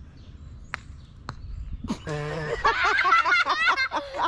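A putter striking a golf ball on a mini-golf course: two sharp clicks about half a second apart. About two seconds in, loud excited shrieking and laughter from the players follows.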